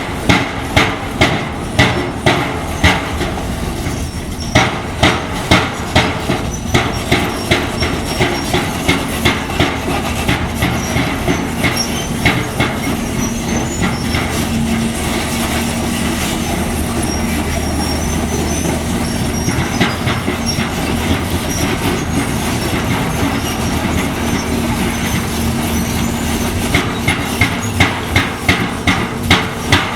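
Rhythmic metal-on-metal hammering, about two blows a second, which stops for a stretch in the middle and starts again near the end. In the gap, heavy diesel construction machinery runs with a steady hum and faint high squeaks.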